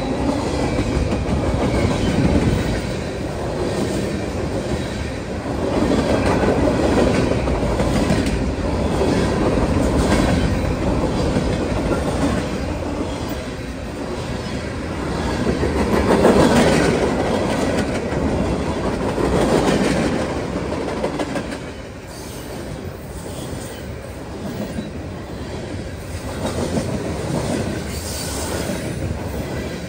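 Freight train cars rolling past close by: a steady rumble of steel wheels on rail with rhythmic clickety-clack over the rail joints, rising and falling in loudness every few seconds as the cars go by.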